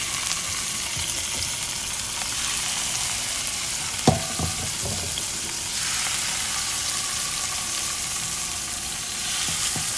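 Swordfish involtini sizzling in hot olive oil in a frying pan as the rolls are laid in seam-down, a steady hiss that grows a little stronger past the middle. One sharp knock about four seconds in.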